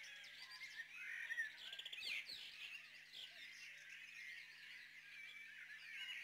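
Faint birdsong: many quick chirps and short trills from small songbirds.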